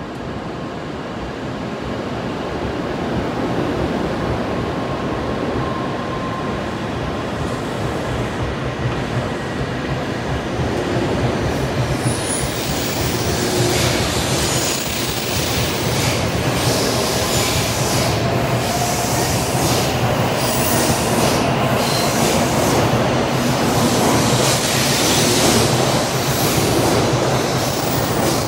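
N700 series Shinkansen pulling out and gathering speed alongside the platform. Its running noise from motors and wheels grows steadily louder and brighter, with a faint rising whine in the second half.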